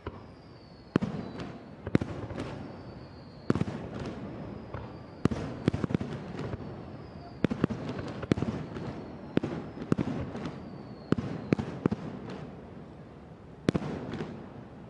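Aerial fireworks shells bursting overhead: a rapid series of sharp bangs, one or two a second and sometimes doubled, each followed by a rumbling echo, with faint high whistles sliding slightly down in pitch between the bursts.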